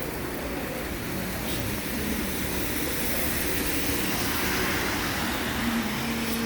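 Steady rush of a rainstorm, with a vehicle passing on the wet road that swells the noise in the middle. A low steady hum comes in near the end.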